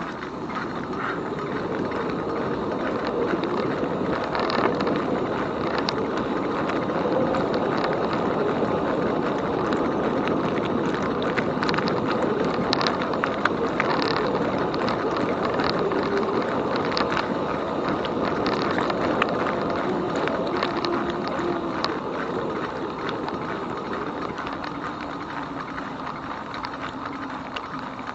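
E-bike rolling along a trail: a steady rush of tyre and wind noise with many small scattered clicks and rattles.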